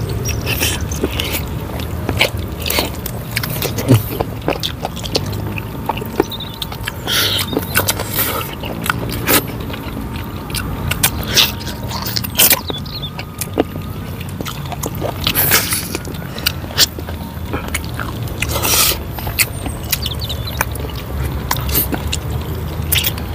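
Close-miked mukbang eating sounds: two people chewing and biting chicken in a sauce, with wet lip smacks and mouth clicks at irregular moments throughout. A steady low rumble runs underneath.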